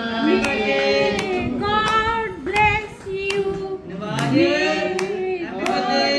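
Several voices singing together, accompanied by rhythmic hand-clapping at roughly two claps a second.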